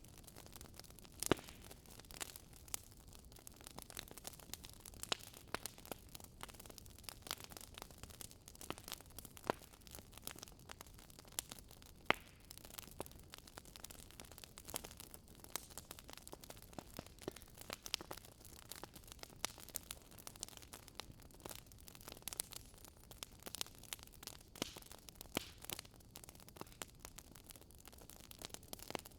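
Burning firewood crackling: irregular sharp pops and snaps, several a second, over a soft steady hiss, with louder snaps about a second in and near twelve seconds.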